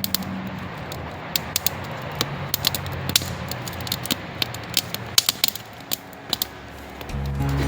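Campfire of wet wood just catching, crackling and popping in irregular sharp snaps. Background music comes in near the end.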